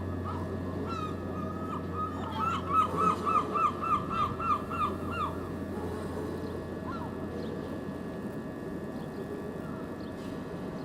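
A bird calling a quick run of about a dozen repeated notes, each rising and then falling in pitch, over a steady low hum.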